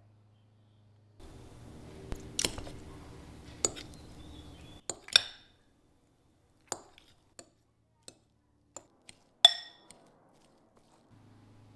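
Dishes clinking and tapping: a dozen or so sharp clinks, several ringing briefly, the loudest about three quarters of the way through. A low steady hum sits under the first few seconds.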